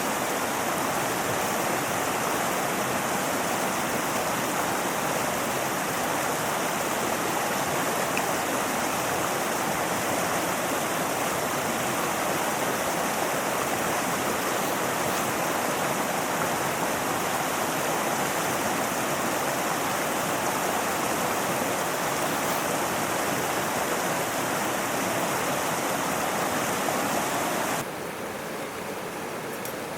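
A mountain river rushing steadily over rocks. Near the end the rush drops suddenly to a softer, thinner level.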